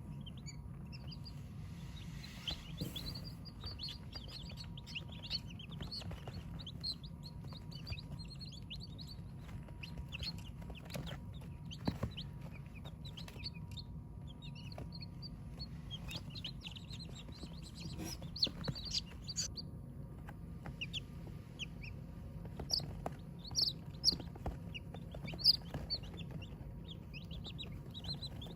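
Chickens clucking, with many short, high peeps and chirps scattered throughout that grow louder and busier near the end, over a steady low hum. There are a couple of sharp knocks along the way.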